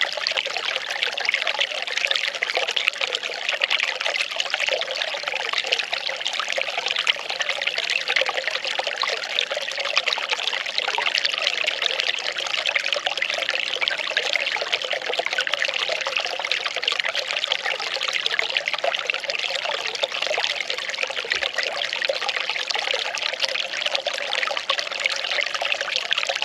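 Well water pouring and trickling steadily, an even splashing rush with no change in level.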